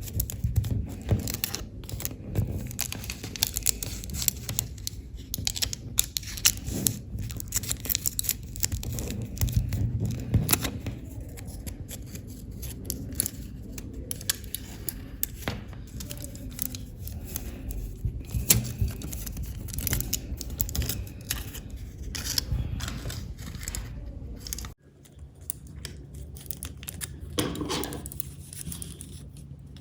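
Aluminium foil and paper being worked by hand: crinkling, rustling and snipping with many sharp clicks. A low background hum drops out suddenly near the end.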